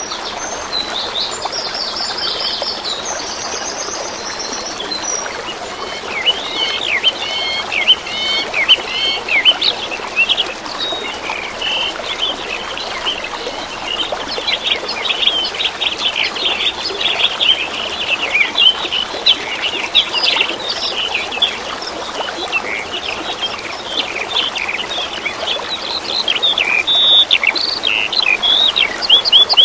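Stream water trickling steadily, with small songbirds chirping and calling over it. A few calls sound in the first seconds, then from about six seconds in the chirps come thick and fast.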